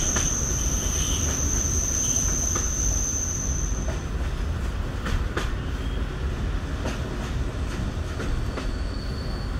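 EN57 electric multiple unit running, heard from inside the carriage: a steady low rumble from the wheels and bogies, with occasional clicks over the rail joints. A high steady squeal sounds for the first four seconds and returns fainter near the end.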